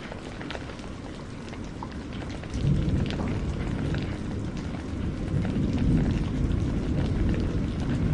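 Steady rain with scattered close drop ticks, under a deep rumble of thunder that swells suddenly about two and a half seconds in and rolls on.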